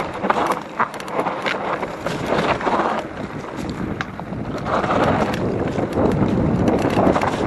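Mountain bike riding down a rough trail: tyre noise over dirt and rocks with frequent rattles and knocks from the bike, and wind on the microphone. It gets louder about halfway through.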